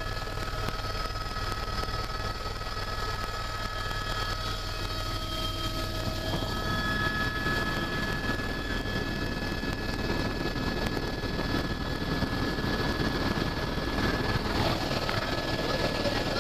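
Helicopter running steadily: a low rotor and engine drone with a steady high turbine whine over it, growing louder about halfway through.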